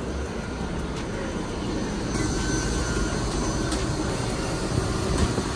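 Steady rumble of a passenger train, heard from inside the coach doorway and aisle, with a few faint clicks and knocks.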